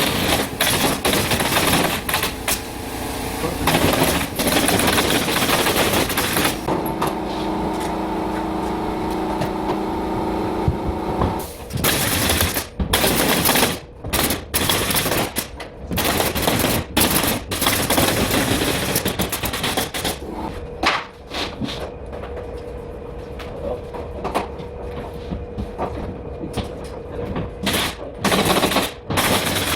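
Pneumatic nail gun firing over and over in quick runs of sharp shots. A machine runs steadily for a few seconds partway through.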